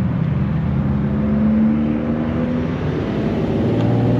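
A car engine running at a steady raised speed, its pitch beginning to climb slowly near the end.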